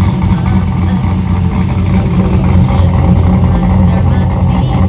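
Loud aftermarket-exhausted Camaro engine idling, a steady deep rumble with no revving.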